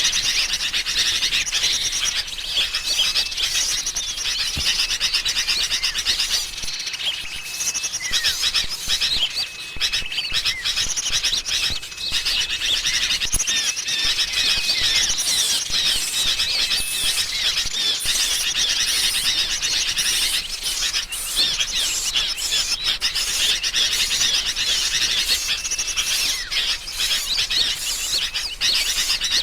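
Dense, continuous chatter of many birds: a bird-lure recording of agitated, scolding sooty-headed bulbul calls mixed with calls of small songbirds, with short level whistled notes recurring throughout.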